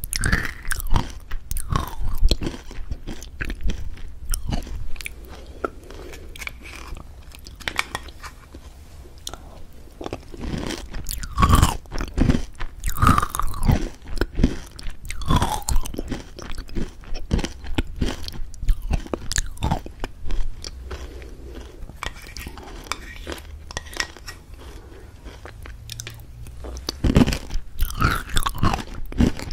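A person chewing crunchy food: a long run of irregular crisp crunches, coming thicker at times.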